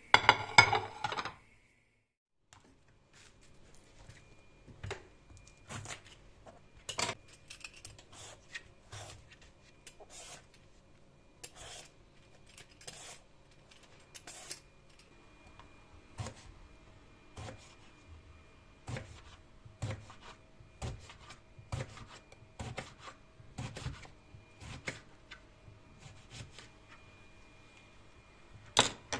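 Kitchen handling sounds: a loud clatter of dishes or utensils at the start, then scattered sharp clinks and taps, roughly one a second, over a faint steady hum.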